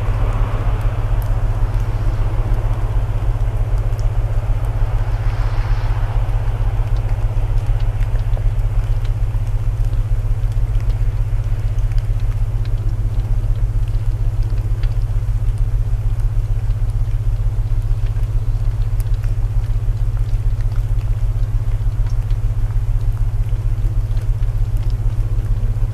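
Layered sleep soundscape: steady low binaural tones under an even hiss of rain, with faint scattered crackles of a wood fire.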